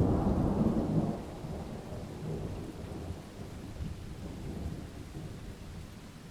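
A thunderclap breaks in suddenly, loudest for about the first second, then rolls on as a low rumble that slowly fades, over steady rain.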